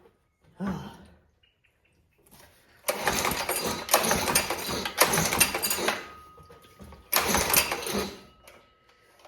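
Small old single-cylinder engine being pull-started on choke. It fires and runs roughly for about three seconds, then dies away. A second pull near the end brings it running again for about a second.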